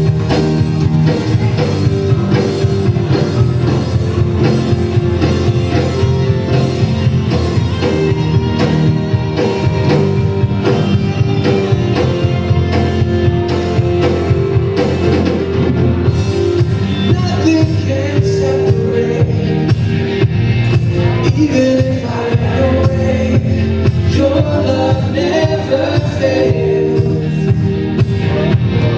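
Live worship band playing a song, with guitar and drum kit keeping a steady beat.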